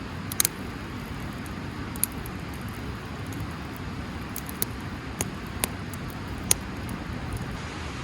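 Scattered raindrops from a light sprinkle ticking sharply and irregularly, about six in all, over a steady low background rumble.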